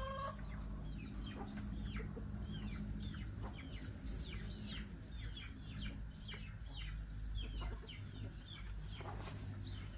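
Birds chirping over and over: many short, high calls that fall in pitch, several a second, over a steady low background rumble.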